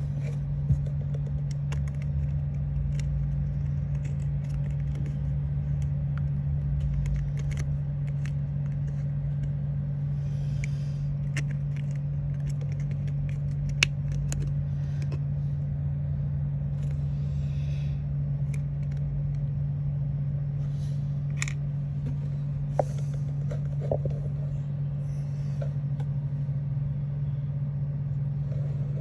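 A steady low hum throughout, with scattered small clicks, taps and rustles of craft materials being handled.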